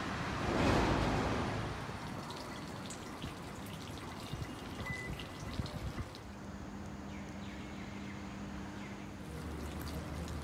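Rain dripping and trickling outdoors, with scattered small drops. There is a brief swell of noise about a second in, and a steady low hum comes in about six seconds in.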